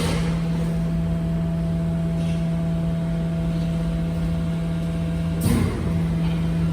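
Garbage truck running with a steady low hum and a fainter higher tone, with a brief sharp noise at the start and another about five and a half seconds in.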